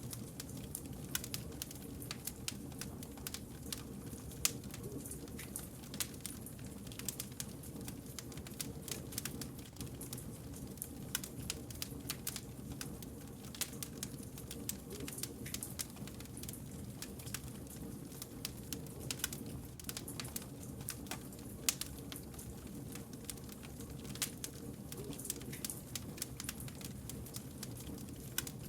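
Burning firewood crackling and popping in quick irregular snaps, over a low steady rumble from the fire.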